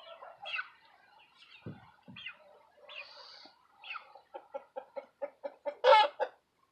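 Chickens clucking: scattered calls, then about four seconds in a fast run of short clucks, about six a second, building to a loud squawk near the end.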